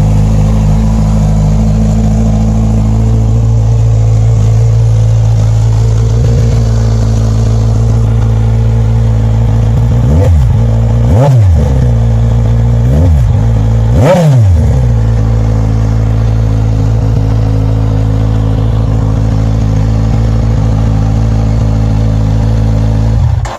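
Kawasaki Z1000SX inline-four engine running with no exhaust fitted, open at the headers: loud, idling steadily, with four quick throttle blips between about ten and fifteen seconds in, then switched off just before the end.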